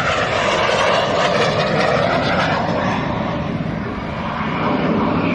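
Loud engine noise of an aircraft flying past, its pitch sinking early on as it goes by, then holding steady.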